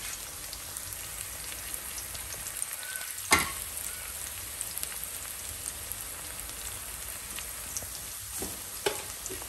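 Diced onion and potato frying in hot oil in a wok: a steady sizzle with small crackles. Two sharp clicks stand out, a loud one about a third of the way in and a smaller one near the end.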